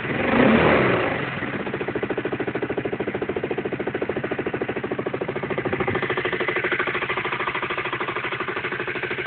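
Aprilia Leonardo 150 scooter's single-cylinder four-stroke engine: a short throttle blip that dies away within the first second, then a steady idle with an even, rapid pulsing beat.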